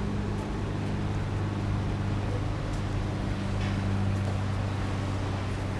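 Steady low drone of an engine running at constant speed, with street noise behind it.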